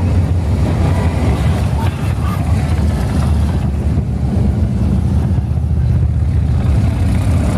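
A steady stream of motorcycles riding past in a long convoy, their engines making a continuous low rumble, with wind buffeting the microphone.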